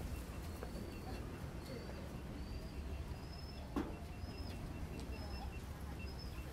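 A bird repeating a short, slightly rising high call about one and a half times a second over a steady low outdoor rumble. One sharp knock sounds about halfway through.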